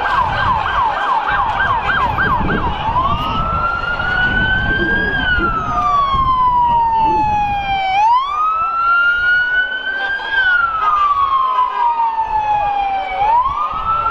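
Police car siren in a fast yelp that switches to a slow wail about three seconds in, rising and falling in long sweeps of several seconds each, over steady background noise.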